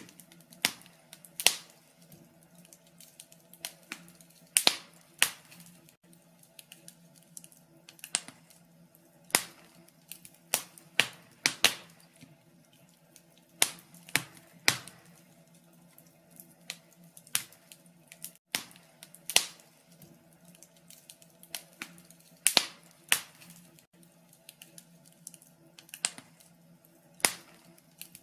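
Wood fire in a fireplace crackling: irregular sharp pops and snaps, some in quick clusters, over a faint steady hum.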